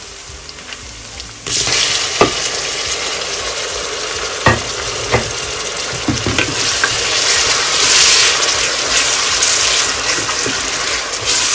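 Chopped tomatoes tipped into hot oil and fried onions in a pressure cooker: a quiet frying hiss jumps to a loud sizzle about a second and a half in. A wooden spoon stirs through it, knocking against the pot several times.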